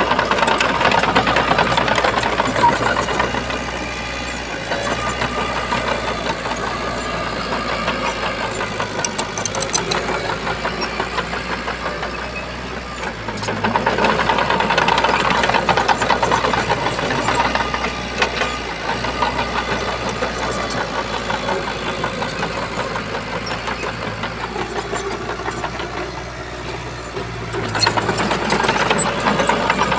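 Shantui bulldozer's diesel engine running steadily under work, swelling louder three times: at the start, around halfway and near the end, as it takes on heavier load.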